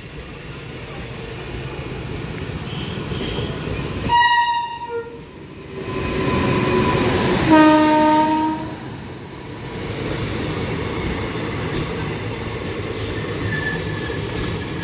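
Indian Railways electric local train running past with two short horn blasts, the second one lower, then a steady rumble of the train on the track.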